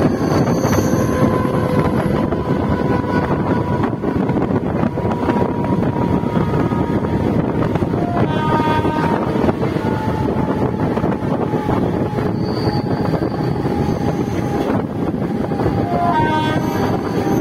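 Mumbai suburban EMU local train running, heard from its open doorway: a steady rumble of wheels on the track mixed with wind. Brief whining tones come through about halfway through and again near the end.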